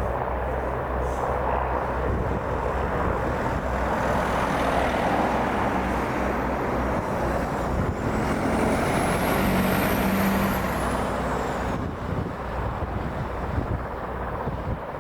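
Royal Navy Merlin HC.4 helicopter running, its turboshaft engines and rotor making a steady broad roar over a low hum. A high turbine whine rises about halfway through, holds for a couple of seconds, then falls away, after which the noise eases slightly.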